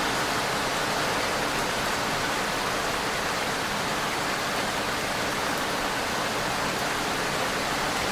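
Steady, even rain falling, an unbroken hiss without separate drops or any change in strength.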